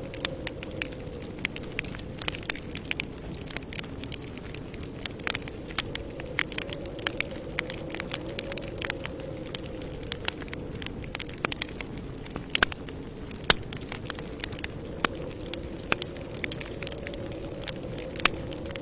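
Campfire crackling: irregular sharp pops and snaps over a steady low rush of burning wood.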